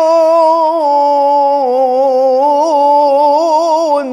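A male Quran reciter holds one long, melodic drawn-out note in tajweed-style recitation. The pitch steps down slightly partway through and wavers in quick ornamental trills in the second half. He breaks off near the end, leaving a short echo.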